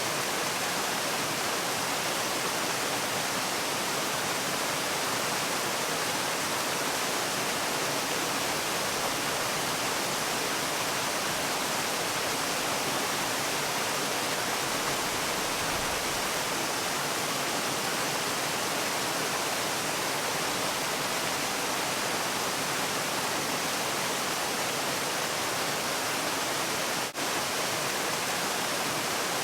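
Waterfall: a steady, even rush of falling water, with a momentary drop-out in level near the end.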